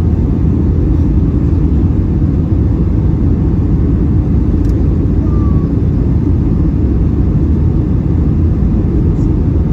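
Steady low rumble of engine and airflow noise inside the cabin of a Boeing 757-300 on its arrival into Los Angeles, with a faint click about halfway through.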